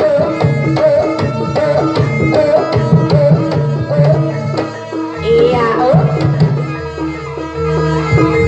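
Javanese jaranan gamelan music: rhythmic drum strokes over repeated, steadily held metallophone and gong tones, with a rising, swooping note a little past the middle.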